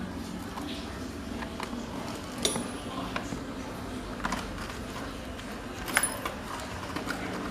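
Light metallic clicks and clinks of small metal parts being handled, with two sharper clinks about two and a half and six seconds in, over a low steady hum.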